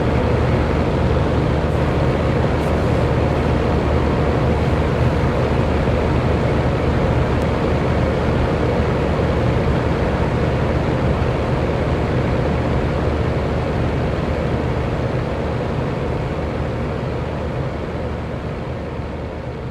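Electric fan running steadily: an even rush of air over a faint motor hum, gradually fading out over the last few seconds.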